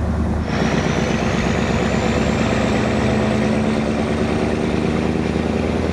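Scania 143's V8 diesel running under way through straight vertical exhaust stacks, a steady deep drone. About half a second in the sound changes and grows fuller, with a faint high whine rising slowly behind it.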